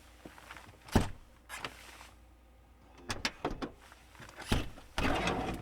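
Several separate knocks and thumps, then a short rumbling slide near the end.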